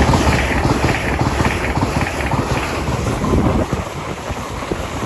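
Two coupled LNER Azuma Class 801 electric trains passing through at speed: a loud rush of wheel and air noise with wind buffeting the microphone. It is loudest at first and eases off about three and a half seconds in.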